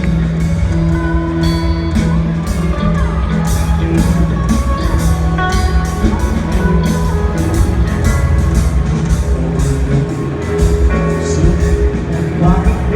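Live rock band playing: electric guitar lines over bass and a drum kit with a steady cymbal beat.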